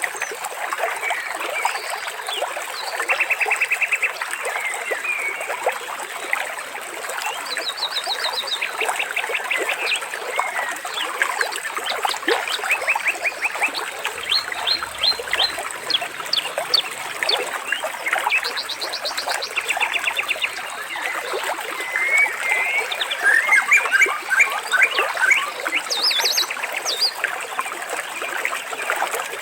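Water trickling and splashing steadily with many birds calling over it, mostly quick chirps and several rapid buzzy trills.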